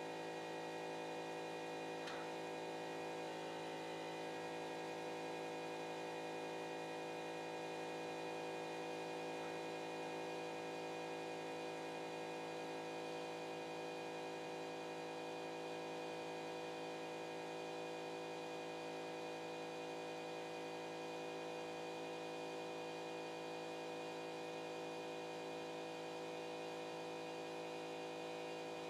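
Steady multi-tone electrical hum of a CNC pen-drawing machine's stepper motors as it draws, with a brief faint tick about two seconds in.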